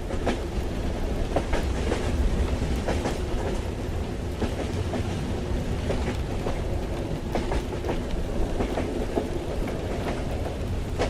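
Train running, heard from inside a carriage: a steady deep rumble with a hiss over it and irregular sharp clicks and knocks from the wheels and car.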